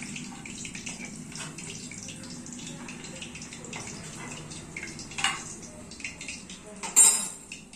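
Chicken pakoras frying in hot oil over low gas: a steady sizzle full of small crackles. A sharper tick comes about five seconds in and a louder clatter near seven seconds.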